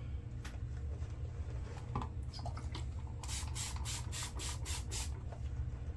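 Shaving brush working soap lather in a run of quick, even strokes, about four a second, lasting about two seconds in the second half, over a steady low hum.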